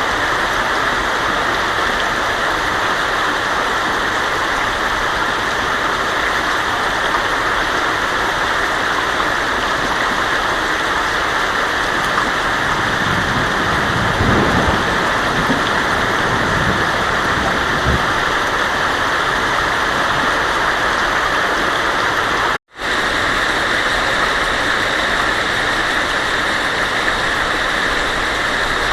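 Heavy rain drumming steadily on a tin roof, with a low rumble of thunder through the middle. The sound cuts out for an instant about three quarters of the way through.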